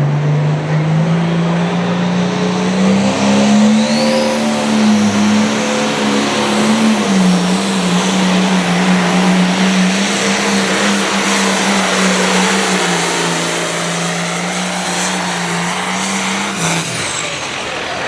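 Limited pro stock pulling tractor's diesel engine at full throttle on a pull, its pitch climbing over the first few seconds and then holding steady with a high whine above it. The engine drops off sharply near the end as the pass finishes.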